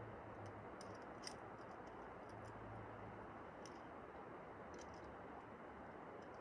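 Faint, irregular light clicks and jingles of metal climbing gear (carabiners and cams) over a steady background hiss.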